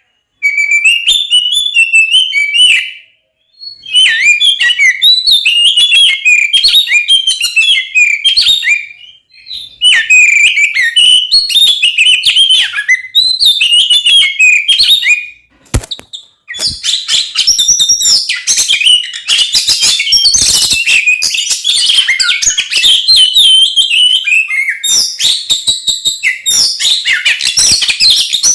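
Oriental magpie-robin (kacer) singing a loud, fast, varied stream of whistles and chattering notes, in bursts of several seconds broken by brief pauses. A single sharp click falls in one pause about two-thirds of the way through.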